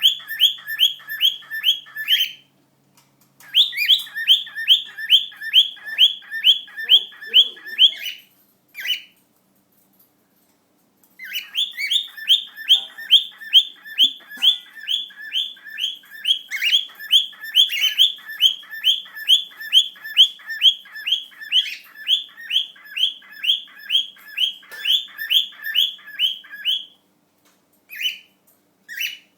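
Male cockatiels singing a courtship song: long runs of short, rising whistled chirps at about three a second, breaking off briefly twice before resuming.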